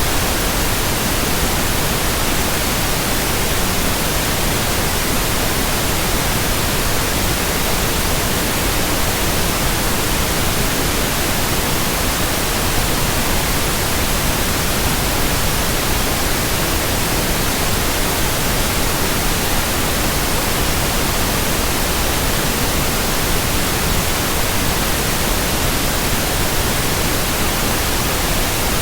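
Steady white noise: an even, unchanging hiss across all pitches, with no rhythm, tone or separate events.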